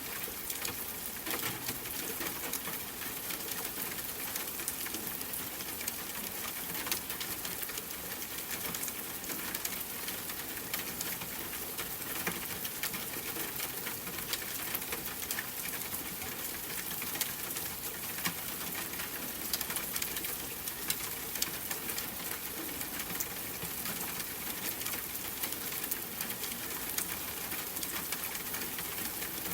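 Steady rain pattering on a window, a continuous hiss dotted with the small ticks of single drops.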